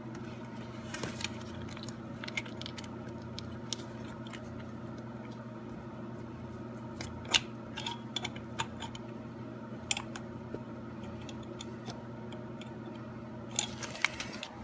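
Scattered small metallic clicks and clinks of parts and hand tools being handled during assembly, over a steady low hum. The sharpest clicks come about seven seconds in and near the end.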